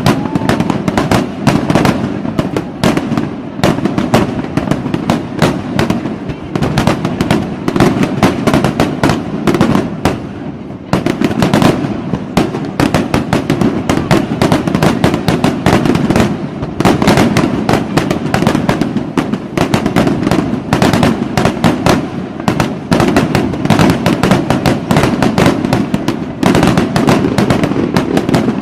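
Fireworks going off in a dense, continuous barrage of rapid bangs and crackles, loud, with a brief lull about eleven seconds in.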